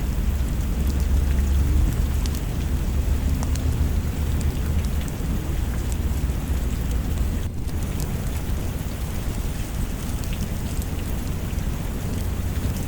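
Steady rain with a heavy low rumble underneath, like distant thunder, and scattered small ticks. There is a momentary dip just past the middle.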